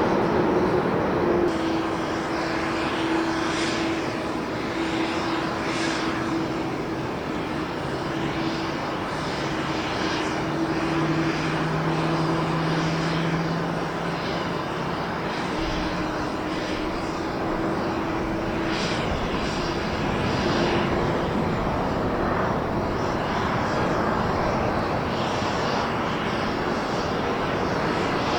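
Airbus A320neo airliner on landing approach, its jet engines running with a steady hum over continuous rushing noise.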